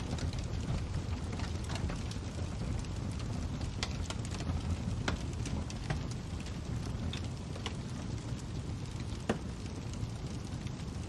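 Fire crackling: a steady low rumble of burning with irregular snaps and pops, one sharper pop about nine seconds in.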